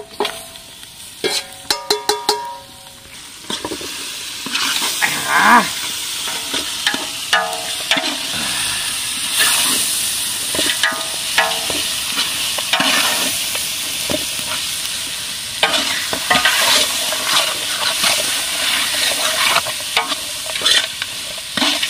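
Marinated country chicken sizzling as it is tipped into hot oil in a large aluminium pot over a wood fire, then stirred. Ringing metal clanks near the start, then a steady sizzle broken by the ladle scraping and knocking against the pot.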